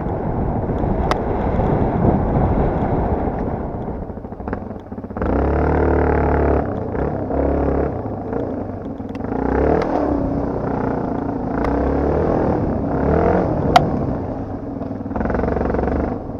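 Yamaha TT250R's single-cylinder four-stroke engine being ridden, the revs rising and falling again and again as the throttle opens and closes. A few sharp clicks, the loudest about 14 seconds in.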